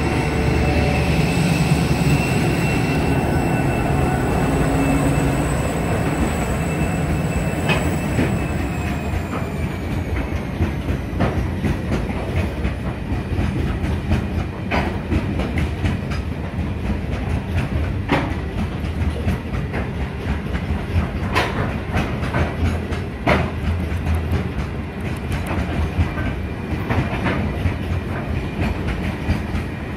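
Two Pacific National 81 class diesel-electric locomotives passing with a long freight train: engine rumble and a high whine that fade over the first ten seconds or so, then the hopper wagons rolling by, their wheels clicking over the rail joints in an irregular clickety-clack.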